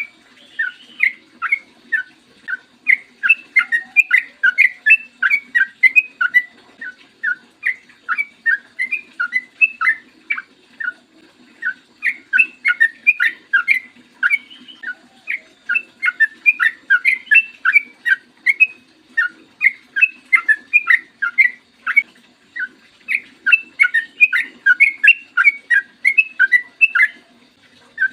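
Yellow-vented bulbul (trucukan) singing: quick notes repeated in long running phrases, broken by a couple of brief pauses.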